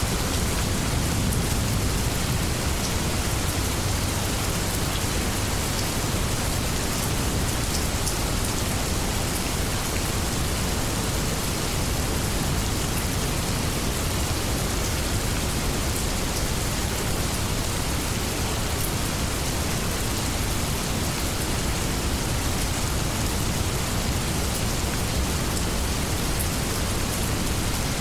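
Steady rainstorm: an even hiss of heavy rain with scattered drop ticks and a steady low rumble beneath it.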